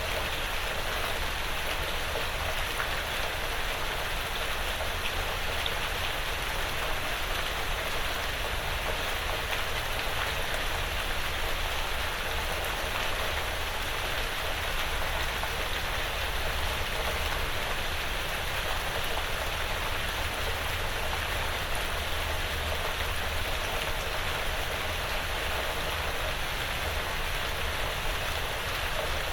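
Steady, even rain falling on a porch roof and the surrounding woods, with no single drops or other events standing out.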